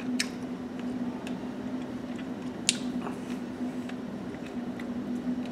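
A man chewing a bite of smoked chicken, with two sharp mouth clicks, one just after the start and one about halfway through, over a steady low hum.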